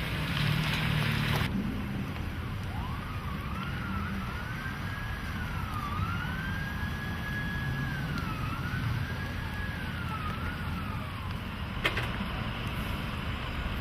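An emergency vehicle's siren wailing, rising and falling slowly for several seconds over a steady low rumble. A short hiss comes at the start, and a single sharp click comes near the end.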